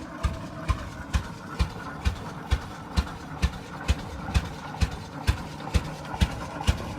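1912 Rumely OilPull Type F single-cylinder tractor engine running at a slow, even beat, each firing stroke a loud exhaust bark about twice a second over a steady mechanical hum.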